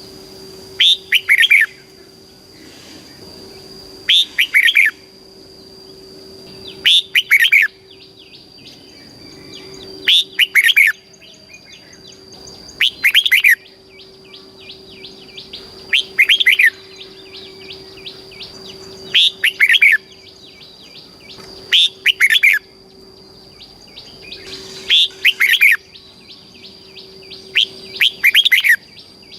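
Red-whiskered bulbul singing its short, repeated song phrase: a quick run of clear whistled notes about a second long, coming about every three seconds, some ten times over. A faint steady high tone runs underneath.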